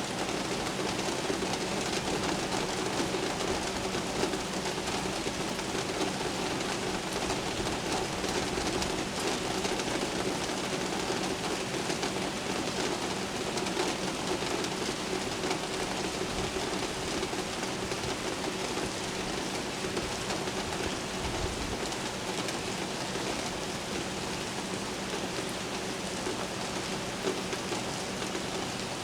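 Steady, heavy rain falling in an unbroken hiss, with a low steady hum underneath.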